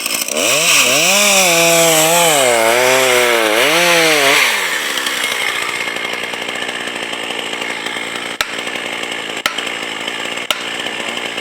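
Logging machinery at work: a motor running under load, its pitch wavering up and down for about four seconds, then settling into a steadier running noise with a light click about once a second.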